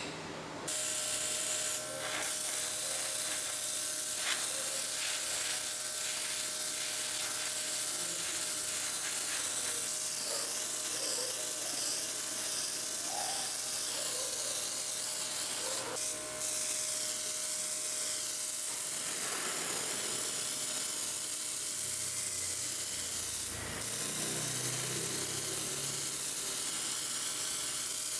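Steady hissing of a workshop tool at work, with a faint steady whine underneath, starting under a second in.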